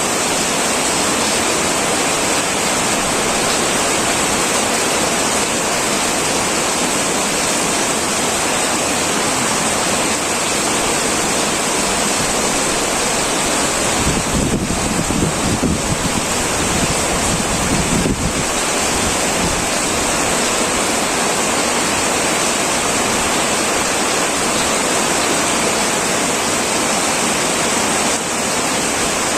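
Heavy rain pouring steadily on a metal roof, a dense, even hiss. For a few seconds about halfway through, a low rumble rises under it.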